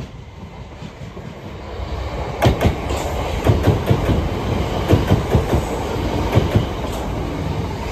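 Southern electric multiple-unit train running non-stop through the station. Its rumble builds, then from about two and a half seconds in its wheels clack rapidly over the track as the carriages pass close by.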